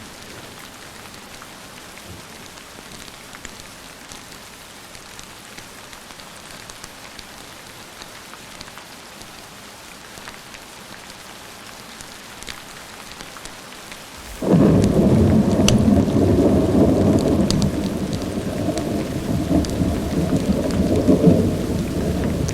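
Steady rain hissing. About two-thirds of the way through, a loud rumble of thunder breaks in suddenly and rolls on, deep and sustained, to the end.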